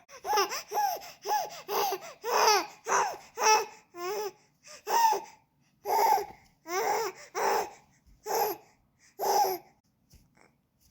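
Baby laughing and babbling in a run of short high-pitched bursts that rise and fall, stopping shortly before the end.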